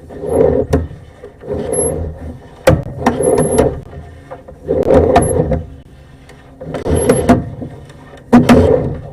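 Sewer camera push cable being fed into the drain pipe in repeated strokes, about six pushes, each a short scraping rattle with knocks and brief thin squeaks.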